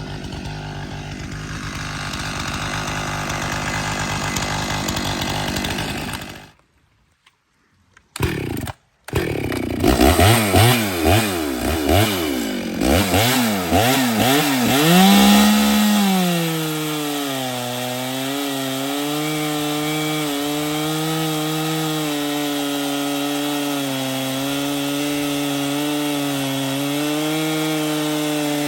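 Echo CS-6700 two-stroke chainsaw running loud and steady, then cutting out for a couple of seconds. It is then blipped through a series of quick revs, and from about halfway is held at a steady high engine speed.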